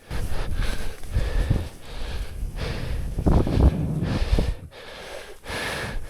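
Wind rushing over the microphone in uneven gusts while riding a snowboard through snow, with short lulls between the gusts.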